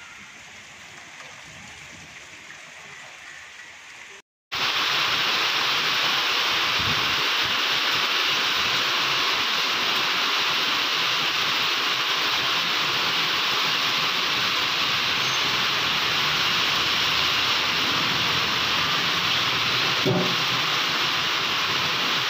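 Heavy rain pouring down in a steady hiss. About four seconds in the sound cuts out for a moment, and after that the downpour is much louder.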